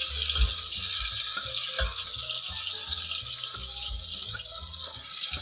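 Onion paste sizzling as it hits hot oil in a steel pot, a steady frying hiss, with the ladle scraping the paste off a steel plate.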